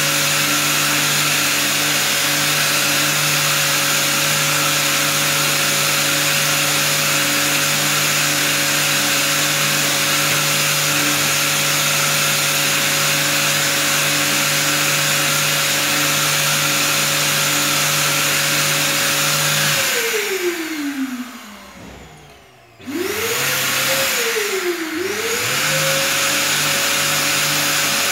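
Power sander with a 240-grit disc, sanding plastic trim strips, running at a steady high whine with a loud hiss. It winds down about 20 seconds in, stops briefly and starts up again about 23 seconds in, then dips once and spins back up.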